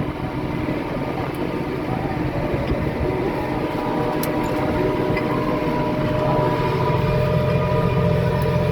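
Tractor engine running steadily, heard from inside the cab, with a steady whine over the rumble; the rumble grows a little louder in the second half.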